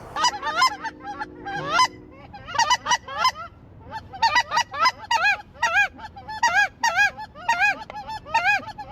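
Snow geese calling: many high, yelping honks in quick succession, overlapping in a steady stream. A faint steady hum sits under the first two seconds.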